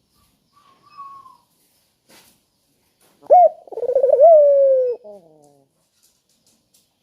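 Puter (Barbary dove) cooing once about halfway through: a short note followed by a longer rolling coo that slides down in pitch.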